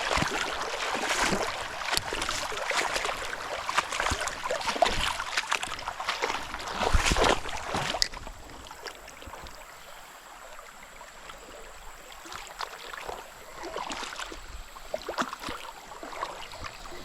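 Creek water splashing and sloshing around a kayak, busiest for about the first eight seconds, then dropping to a quieter trickle with the odd small splash.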